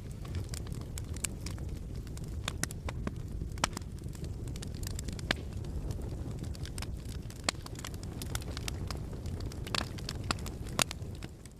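Fire crackling in a fireplace: a steady low rumble of flames with frequent sharp pops and crackles. It cuts off suddenly at the very end.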